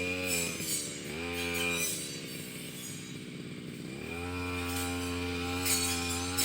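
Petrol brush cutter engine running at high revs with a short dip just under a second in, then falling to a lower speed around two seconds in and revving back up about four seconds in, as the throttle is eased and opened again.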